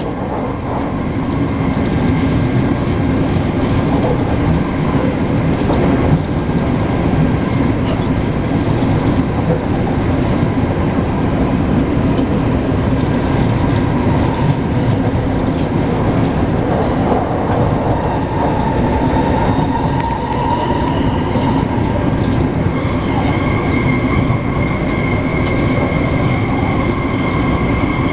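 Taipei Metro C381 electric train running at speed: steady rumble of wheels on the track with a faint whine from the traction equipment. About two-thirds through a tone rises slightly, and a higher steady whine comes in near the end.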